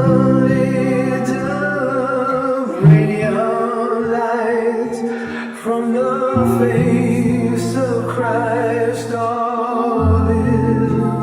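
Music: a choir singing long held notes with vibrato over sustained low bass notes.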